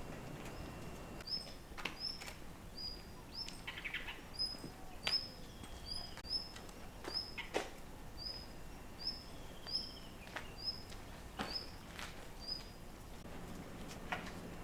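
A small bird repeating a short high chirp, about two a second, over faint background noise, with a few sharp clicks scattered through.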